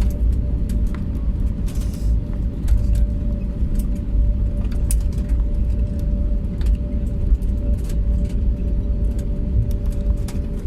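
Airliner cabin noise: a steady low rumble with a constant hum, and scattered light clicks and knocks.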